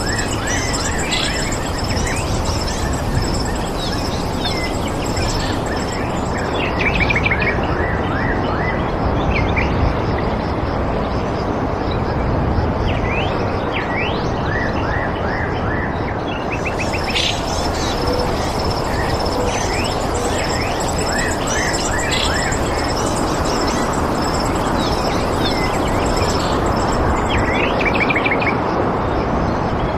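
Small birds chirping and giving quick trills over a steady rushing background noise, with a fast, even pulsing high note running through most of it.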